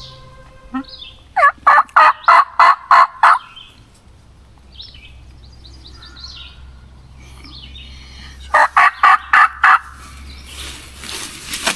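Two runs of loud wild turkey yelping: about eight quick notes, then about six more near the end.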